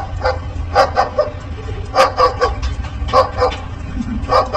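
Short dog-like barks, about nine in loose groups of two or three, over a steady low background rumble.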